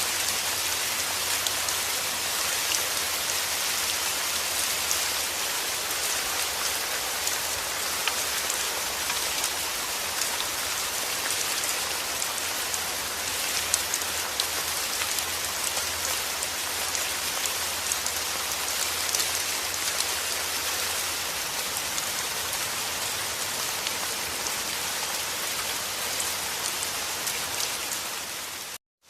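Steady rain falling: a dense, even hiss of drops with many small individual ticks. Near the end it fades out to a moment of silence and fades back in.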